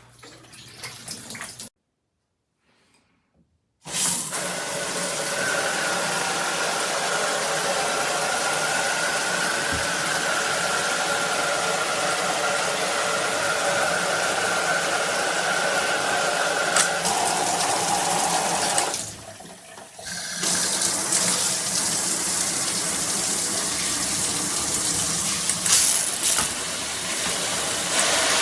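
Water spraying steadily from a multi-setting shower head, with a faint high whistle in the flow for much of the time. The spray drops away briefly and then comes back on.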